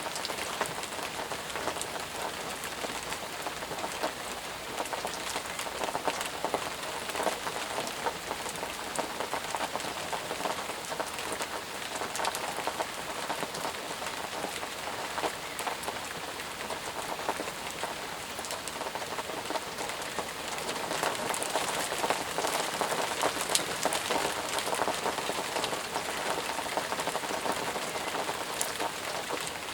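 Steady heavy rain falling, a dense hiss of drops with many close individual drop impacts, swelling a little about two-thirds of the way through.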